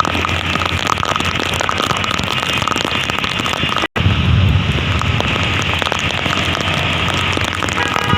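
Heavy monsoon rain, with many drops striking the camera up close as a dense run of small clicks, over a low traffic rumble on a flooded road. The sound drops out for an instant about four seconds in.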